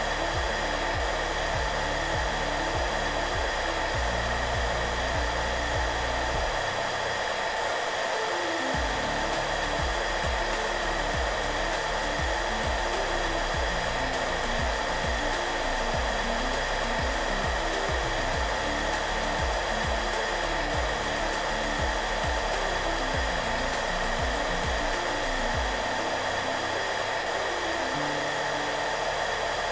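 Hair dryer running steadily: an even, unchanging blowing hiss with a constant motor hum. Soft music plays underneath, with slow low notes changing every second or so.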